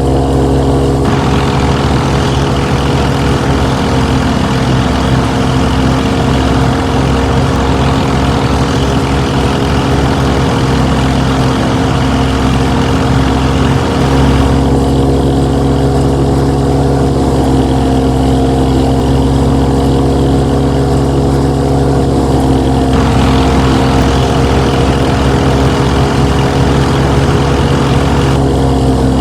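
A motor running steadily, with an even, unchanging drone.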